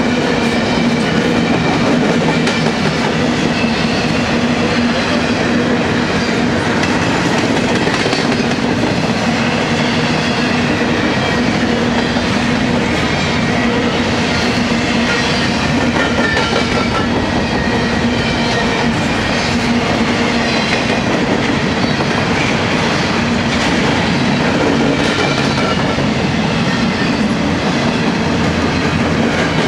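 Empty intermodal well cars of a long freight train rolling past close by: a steady loud rumble of steel wheels on rail with clickety-clack, and scattered short high squeals from the wheels.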